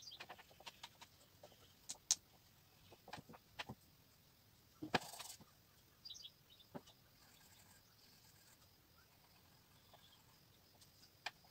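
Faint bird calls with scattered soft clicks, including a few short high chirps about six seconds in and one brief rustling burst near the middle.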